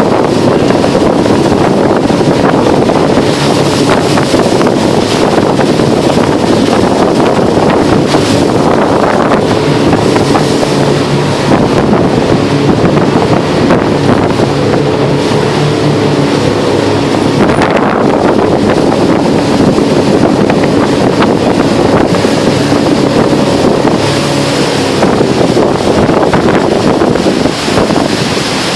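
Tour speedboat's engine running at speed, a steady hum under loud wind buffeting the microphone and rushing water. The engine hum stands out most through the middle stretch.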